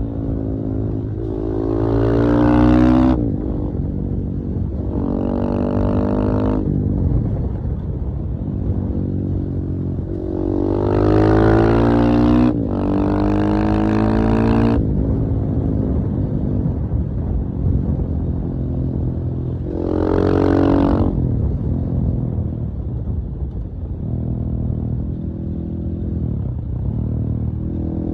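KTM 450 EXC-F's single-cylinder four-stroke engine running, with its revs rising in about five surges and dropping back between them.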